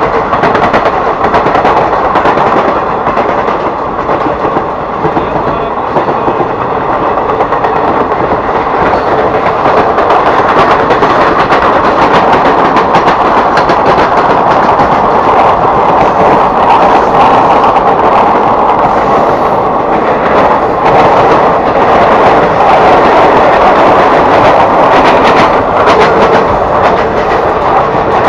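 Mahanagari Express passenger coaches running past close by on the next track: a loud, steady rumble and clatter of steel wheels on rails with a dense run of clicks over the joints, mixed with the running noise of the suburban local train it is overtaking.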